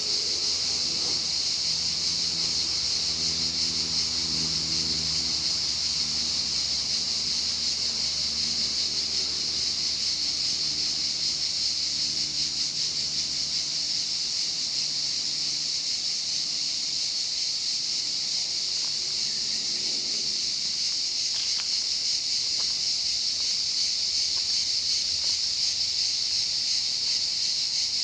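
A chorus of cicadas buzzing, one continuous high-pitched drone. Beneath it, a faint low hum shifts pitch for the first twenty seconds or so and then fades out.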